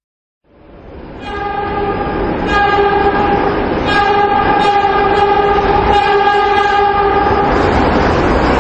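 Subway train running with its horn sounded in several blasts of a second or two each, over the rumble of the train. The sound fades in about half a second in, and the horn stops near the end while the rumble goes on.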